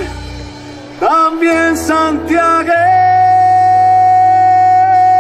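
Argentine folk song with a male voice singing the last phrases, closing on one long held final note.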